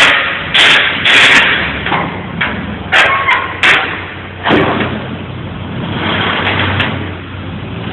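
A skid-steer loader's engine running, with a string of sharp knocks and clanks in the first half, about seven of them, as metal is handled and chained up.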